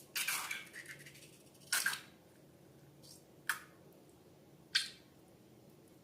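Slime and balloons being handled in short, separate squishes, four of them spaced a second or more apart.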